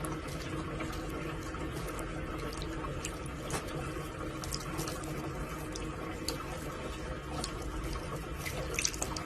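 Steady running water, like a tap, with a few faint clicks.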